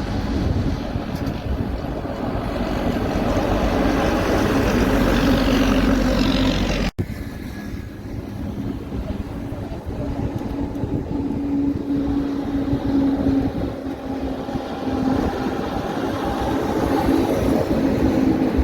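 Heavy trucks driving past, engine and tyre noise with a steady hum. The sound cuts off abruptly about seven seconds in and picks up with another pass.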